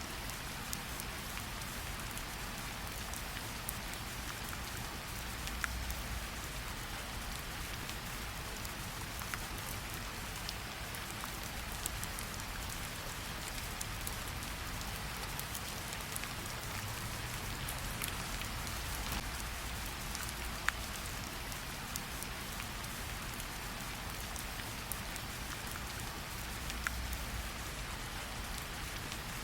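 Steady gentle rain pattering on tree leaves, with scattered louder single drops every second or two.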